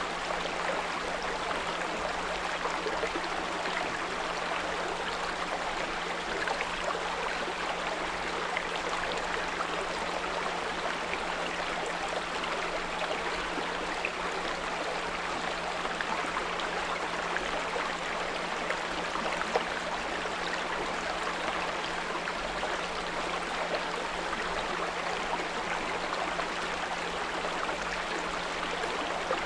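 Small brook babbling steadily, with a steady low 174 Hz pure tone held underneath.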